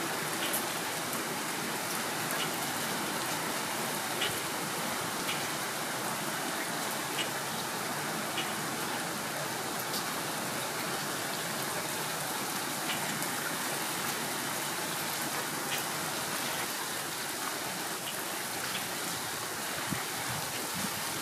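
Steady rain falling on wet asphalt and puddles: an even hiss with scattered sharp taps of single drops.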